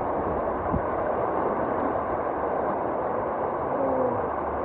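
Steady rush of river water from the Yoshino River, running high just after a typhoon, heard from a raft on the water: an even noise with no breaks.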